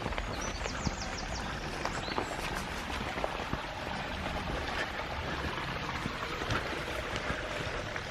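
Footsteps crunching and rustling through wet leaf litter and undergrowth: an irregular patter of small crackles.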